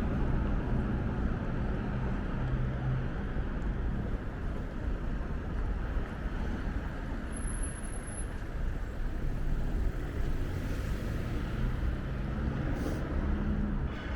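City street traffic: motor vehicle engines running with steady road noise, a low engine hum that swells and fades as vehicles pass. A brief high-pitched tone sounds about halfway through.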